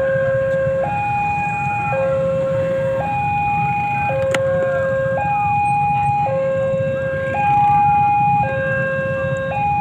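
Two-tone electronic warning alarm, probably a railway level crossing's, switching steadily between a low and a higher tone about once a second, with a low rumble underneath.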